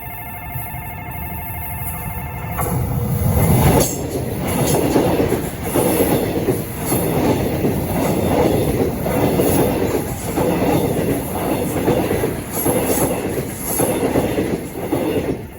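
Level-crossing warning bell ringing rapidly for the first couple of seconds, then a train runs over the crossing. Its rumble builds to a peak about four seconds in, then gives way to a steady run of wheels clattering over the rail joints with a regular beat a little over once a second.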